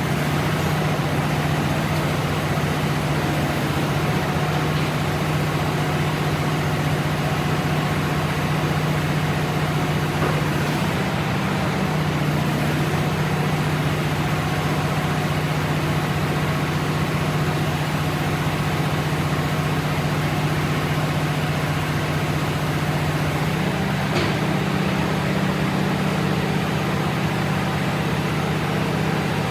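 An engine idling steadily, a low, even hum that shifts slightly in pitch about 11 seconds in and again near 24 seconds.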